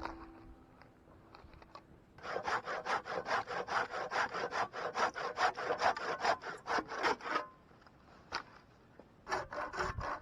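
Hand saw cutting through wood in quick back-and-forth strokes, about four a second. The sawing starts about two seconds in, pauses for about two seconds near the end, then starts again.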